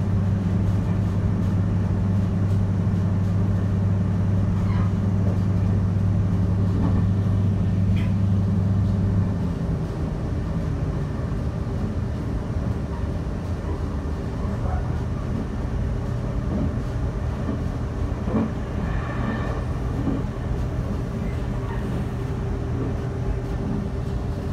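Running noise heard from inside a moving Taiwan Railways train: a steady rumble with a strong low hum that drops away about ten seconds in, leaving it a little quieter, and a few faint clicks.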